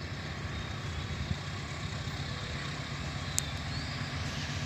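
Steady low engine rumble, like a heavy vehicle idling, with a sharp click about three and a half seconds in.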